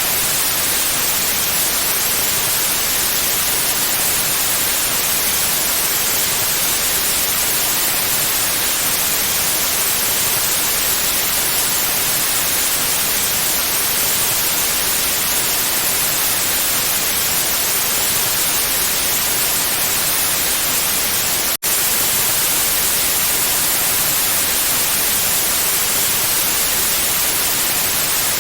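Steady, loud white-noise hiss, even across the whole range and brightest in the highs, with a split-second dropout about two-thirds of the way through.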